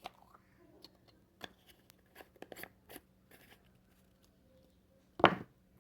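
Small objects being handled and set down on a table: a scatter of light clicks and taps, then one louder knock about five seconds in.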